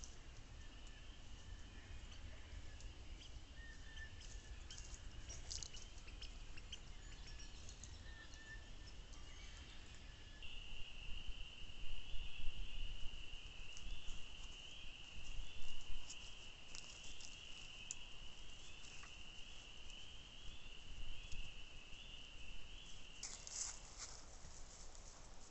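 Insects trilling steadily in a high, slightly wavering tone. The trill grows much louder about ten seconds in and stops with a short noisy burst near the end, over a low rumble and scattered light clicks.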